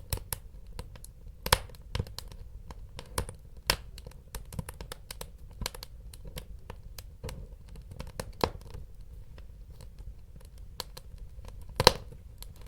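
Wood fire crackling and popping in a fireplace: irregular sharp snaps over a low rumble of burning, with louder pops about a second and a half in and near the end.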